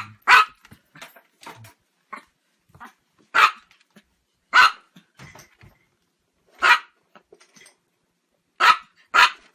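A dog barking: six loud, sharp single barks spaced unevenly one to three seconds apart, the last two in quick succession near the end, with fainter short sounds between them.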